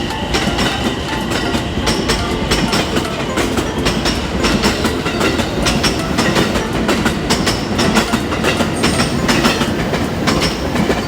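Train running past, its wheels clattering rhythmically over the rail joints with a steady rumble.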